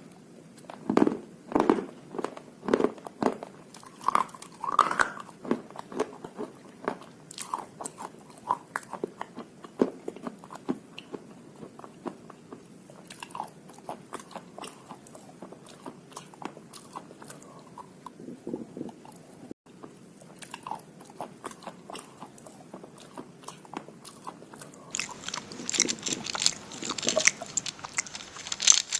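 Slate pencils dipped in slate-pencil paste being bitten and chewed: a run of sharp, brittle crunches. The crunches are loudest and thickest in the first few seconds, thin out into steady chewing, then grow louder and brighter again near the end.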